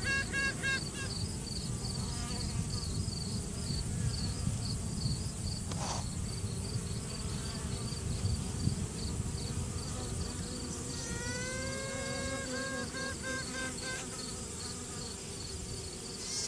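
Honeybee colony humming on the frame, with a virgin queen piping over it. A pulsed tooting tone stops about a second in, then comes back around eleven seconds in as one long rising note followed by a run of short toots. The piping is a virgin queen sounding off, which the beekeeper understands as asserting her dominance.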